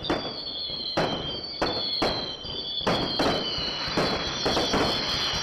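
Fireworks going off: a quick series of sharp bangs and crackles, one or two a second, over a continuous high whistling.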